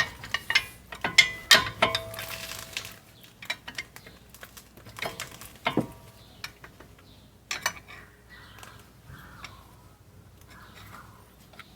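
Metal brake parts and tools clinking and clanking in rapid handling, with some ringing, and a short scrape about two seconds in. A few single clanks follow, then faint rubbing and fiddling.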